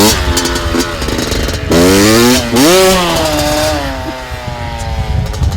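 Two-stroke Honda CR85 dirt bike engine revving hard: it revs up sharply twice around the middle, then runs on with its pitch slowly sinking and the sound fading.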